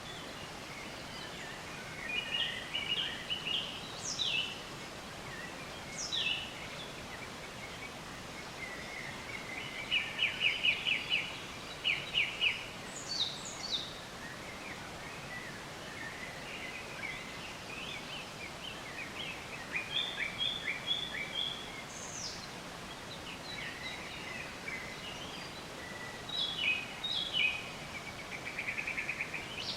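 Several small birds chirping and trilling over a steady background hiss. The calls come in clusters every few seconds: short chirps, quick high downward whistles, and fast rattling trills about ten seconds in and again near the end.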